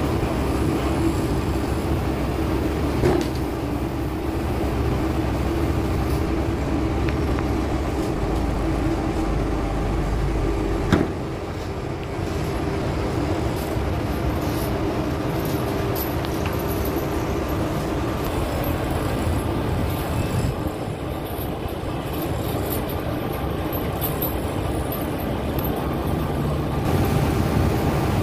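An engine running steadily, with a low rumble and a constant hum. One sharp knock about eleven seconds in, after which the deepest rumble eases off.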